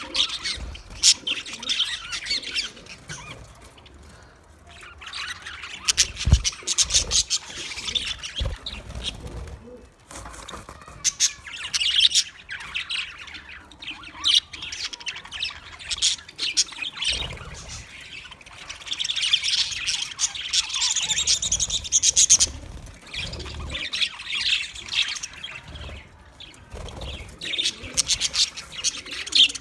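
Budgerigars chirping and chattering, several birds at once, in bursts with short lulls between, and a few low thumps about six to nine seconds in.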